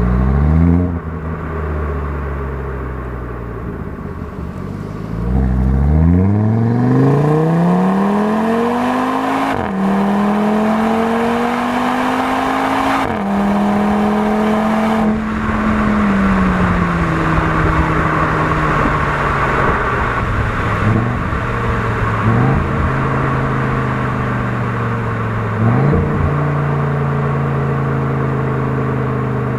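Audi TT RS's turbocharged inline five-cylinder engine and exhaust under hard acceleration, heard from outside the car. The pitch climbs and drops sharply at each upshift, three in quick succession, then eases down to a steady cruise with a brief rise near the end.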